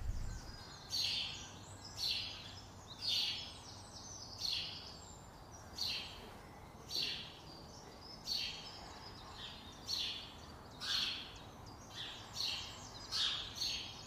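A bird calling a short, sharp high note over and over, about once a second, with faint outdoor background noise.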